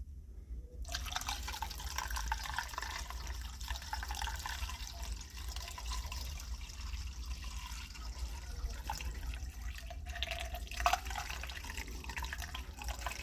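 Liquid boiler-cleaning solution being poured from a small bucket into a steam boiler's opening, a steady trickle of pouring water starting about a second in, with one brief clink near the end.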